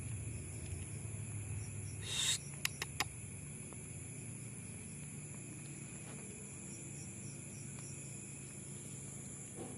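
Steady high-pitched insect chorus, like crickets, with a low rumble in the first two seconds. About two seconds in there is a short rustle, followed by three sharp clicks in quick succession.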